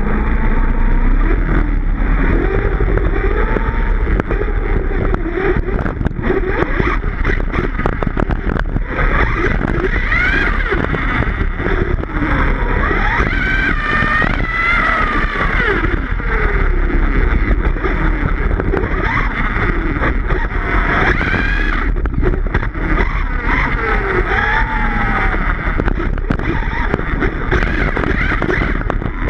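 Electric motor of a 1/5-scale Redcat Rampage XBE RC car whining, its pitch rising and falling over and over as the throttle is worked, over a steady low rumble.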